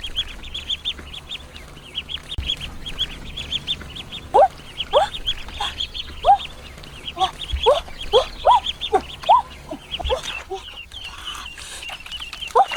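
Ducks and geese calling: a fast run of short high peeps goes on throughout, and from about four seconds in louder, lower calls come in, roughly one or two a second.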